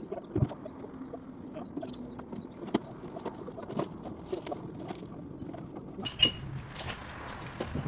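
Scattered light knocks and clicks of demolition work, with a sharper knock and a brief metallic ring about six seconds in, over a faint low hum.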